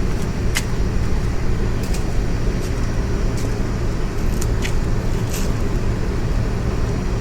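A steady low hum runs throughout, with about seven sharp, irregular clicks on top, typical of hand tools knocking against motorcycle parts during a teardown.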